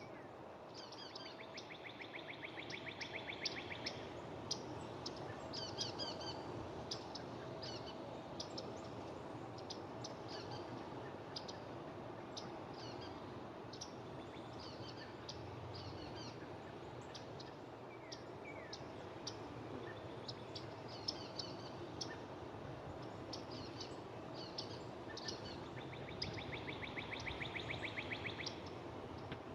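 Small birds chirping, with short high calls scattered throughout. A rapid, evenly pulsed trill of about three seconds sounds once near the start and again near the end.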